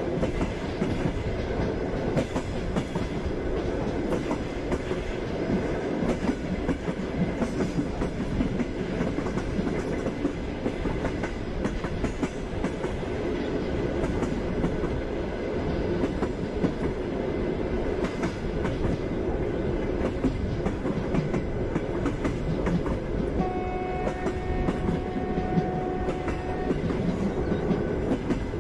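Passenger train running steadily on the rails, wheels clicking over the rail joints under a constant rumble, heard from inside the carriage. A horn-like steady tone sounds for about three seconds near the end.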